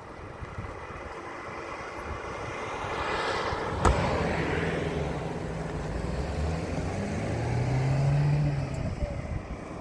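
A motor vehicle passing close by: its noise builds up, there is a sharp click about four seconds in, and a low engine note rises in pitch near the end before fading.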